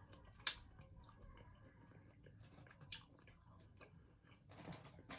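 Faint close-up chewing of chicken wings, with scattered small wet clicks and crunches, the sharpest about half a second in and a denser patch of chewing near the end.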